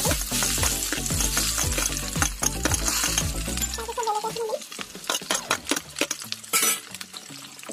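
Chopped onions and green chillies tipped from a steel plate into hot oil in a kadai, sizzling strongly for the first four seconds and then settling, with clicks of the plate against the pan. A short flare of sizzling near the end as more chillies drop in.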